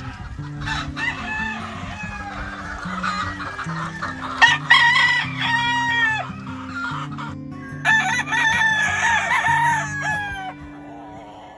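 Gamefowl roosters crowing, several long crows one after another and overlapping, loudest about halfway through and again near the end.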